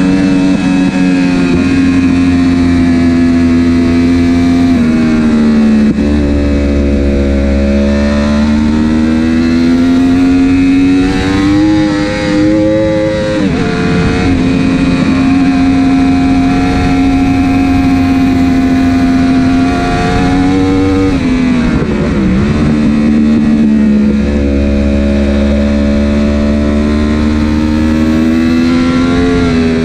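Superbike engine at race pace, heard on board. The engine note holds high, falls sharply a few times at gear changes and climbs again as the bike accelerates. The electronics have failed, so the changes are made without the quickshifter.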